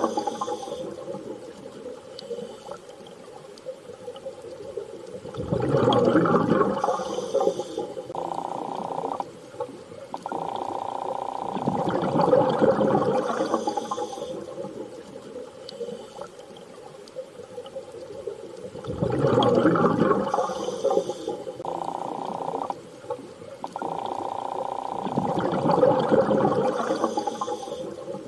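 Underwater water ambience: slow swells of rushing water every six to seven seconds, with long, steady, low humming tones between them, repeating as a loop.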